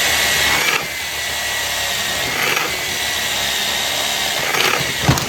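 Cordless power tool running continuously with a steady high whine, working through material. It drops slightly in loudness about a second in and cuts off near the end.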